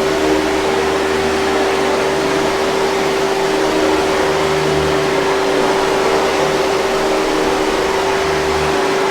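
Hoover 5000 Series canister vacuum cleaner running steadily: an even rush of air with a constant motor hum.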